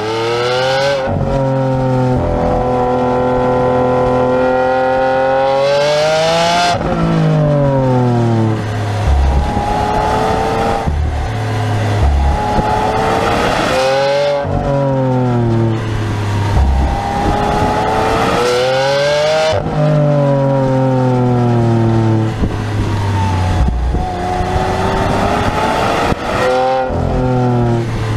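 Lamborghini Aventador's 6.5-litre V12 accelerating hard, revving up through the gears. The pitch climbs steadily in each gear and drops sharply at each of the repeated gear changes.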